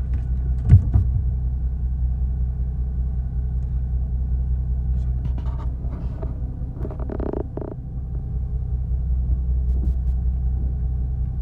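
Fishing boat's engine running at a steady low rumble, with a sharp knock just under a second in.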